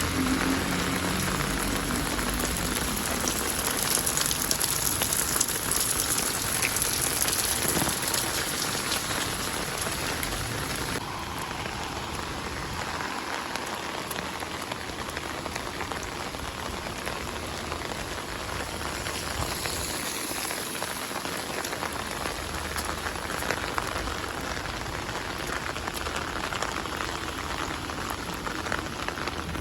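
Steady rain falling on street surfaces, a continuous hiss with a patter of individual drops, a little louder in the first third.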